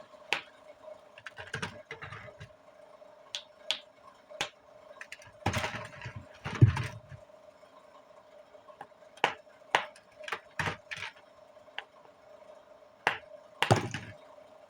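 Dry multani mitti (Fuller's earth clay) lumps being crunched and broken: sharp, irregular snaps and crackles, with a run of heavier crunches about five to seven seconds in and another near the end, over a faint steady hum.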